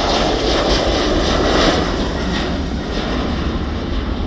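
Jet airliner taking off, a loud, steady engine roar that eases slightly near the end.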